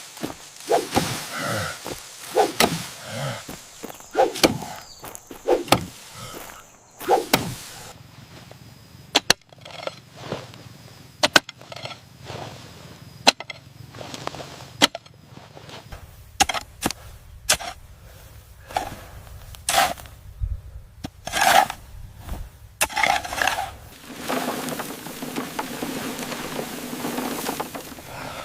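Building-work sounds: irregular sharp knocks and taps with some scraping, with a steady hiss in the last few seconds.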